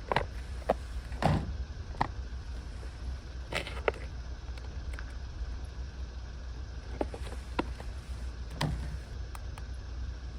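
Wind rumbling on the microphone, with scattered short clicks and knocks from gear being handled.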